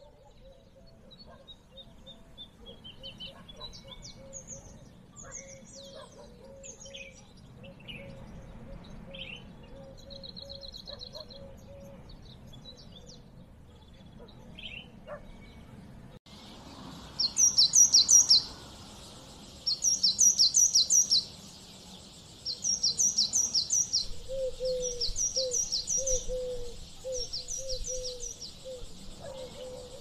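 Birds chirping and singing: scattered faint calls at first, then, after an abrupt change about halfway through, a bird repeating short, loud phrases of rapid high notes every two to three seconds over a steady high hiss. A lower repeated call joins near the end.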